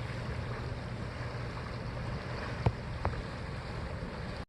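Steady outdoor rush of wind and flowing water, with a low steady hum through the first half and two sharp clicks close together a little past the middle.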